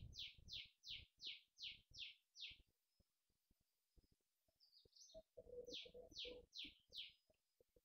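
Faint bird calling: a series of short, falling chirps about three a second. They stop about two and a half seconds in and return for four or five more near the end.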